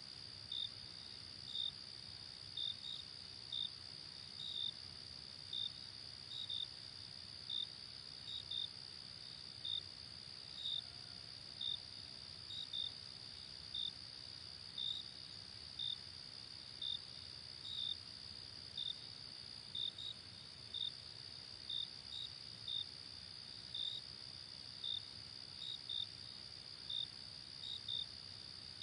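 Night insects: a continuous high-pitched trill with short chirps repeating about once or twice a second, some in quick pairs, over a faint low rumble.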